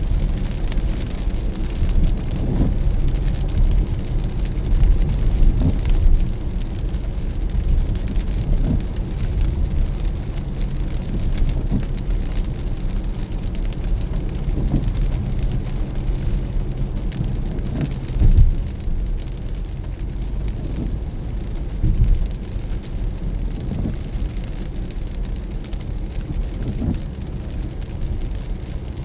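Car driving in the rain on a wet road: a steady low rumble of road and engine under an even hiss of rain and spray, with a few brief knocks, the clearest about 18 seconds in.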